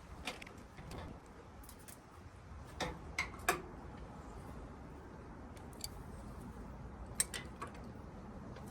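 Scattered light clicks and taps of hand tools working on metal fittings, with a small cluster about three seconds in, over a faint low background hum.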